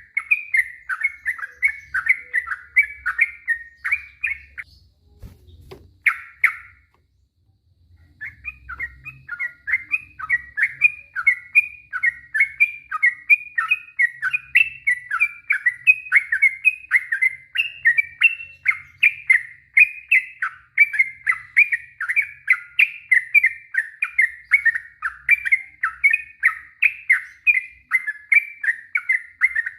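Sooty-headed bulbul (trucuk) singing a long, rapid run of short bubbly notes, about three to four a second. The run breaks off for a few seconds after a brief phrase early on, then resumes and carries on unbroken.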